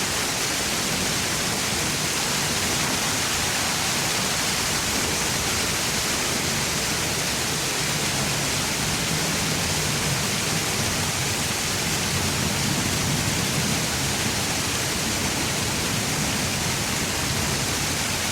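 Park fountain's water falling and splashing, a steady rushing hiss.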